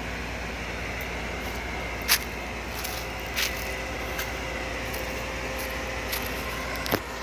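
Excavator's diesel engine running steadily, with three sharp knocks, the loudest about two seconds in; a thin steady whine joins about halfway through.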